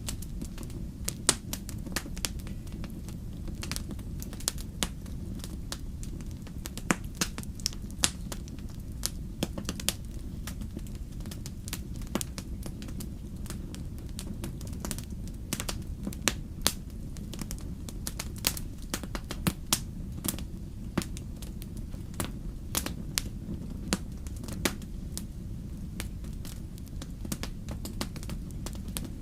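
Wood fire burning in an indoor fireplace: a steady low rumble of the flames with frequent sharp, irregular crackles and pops.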